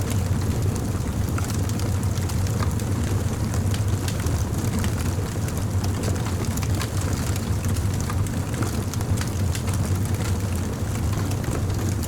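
Campfire burning: wood crackling with many small, irregular sharp pops over a steady low rumble.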